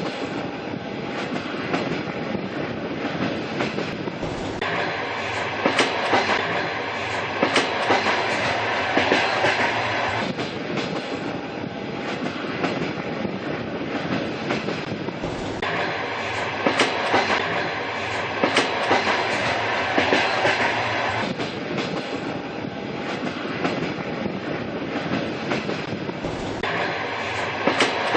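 Train running along the track: a steady rumble with the clickety-clack of wheels over rail joints. The same stretch of sound repeats about every eleven seconds.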